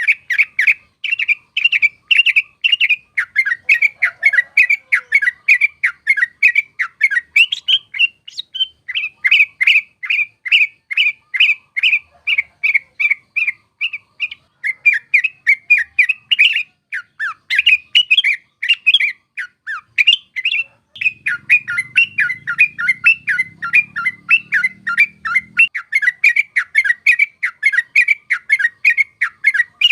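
Yellow-vented bulbul (trucuk) singing a long rapid chattering series of notes, about four a second, without a break.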